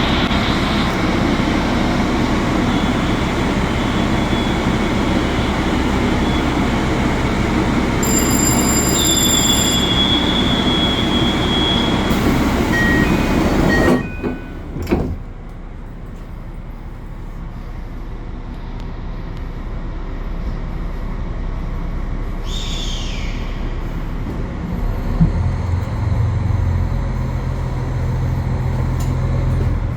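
Limited Express Hokuto diesel train sounds: a loud steady rumble with a short high electronic tone partway through. About halfway in it drops suddenly to a quieter rumble, with a brief falling squeal and then a low hum building near the end.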